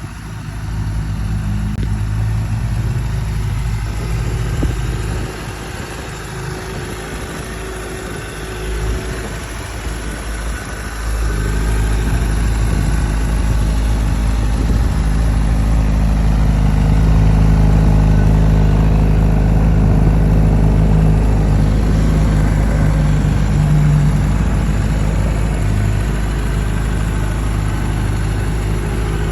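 Honda CBR600RR's 599 cc inline-four engine idling steadily, getting louder about eleven seconds in.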